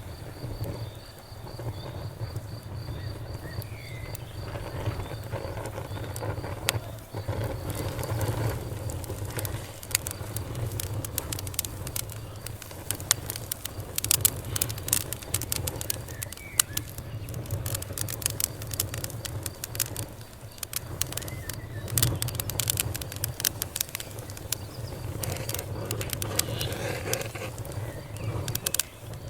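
Campfire burning, wood crackling and popping in quick irregular snaps over a steady low rumble. An insect chirps in a fast pulsed trill for the first few seconds.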